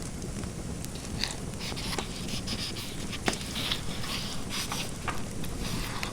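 Fireplace fire crackling, with a few sharp pops over a steady low background noise. From about a second in, short scratchy strokes of a pen writing on paper come and go.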